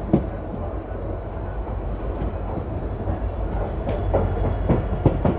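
Passenger train coach running over the track, heard from its open doorway: a steady low rumble with sharp clacks as the wheels cross rail joints and points, one shortly after the start and several in quick succession near the end.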